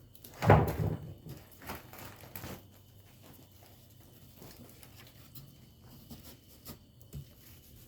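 A person climbing down: a loud thump about half a second in, then a few knocks and scuffs of feet and hands on wood, then faint occasional taps.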